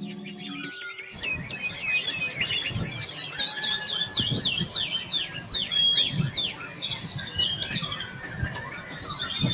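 Songbirds chirping and twittering in quick runs of short, gliding notes, busiest in the middle, with scattered dull low thumps underneath.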